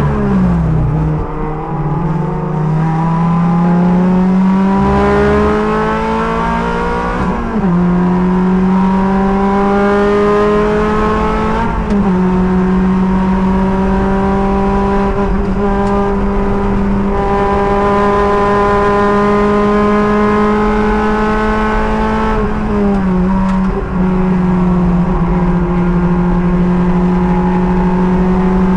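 Race car engine pulling hard through the gears, the pitch climbing and then stepping down at upshifts about 7 and 12 seconds in. After that it holds nearly steady revs, with a brief lift around 23 seconds, with tyre and wind noise underneath.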